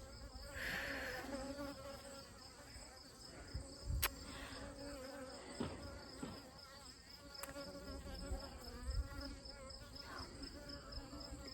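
Honeybees buzzing in flight close by, their hum wavering in pitch as individual bees pass. A steady high insect trill runs underneath.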